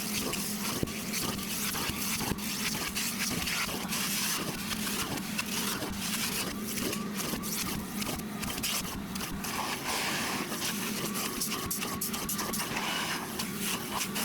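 Ridgid portable shop vacuum running steadily through an extractor wand, sucking water out of seat upholstery: a constant motor hum and rushing air with an irregular crackle of slurped water.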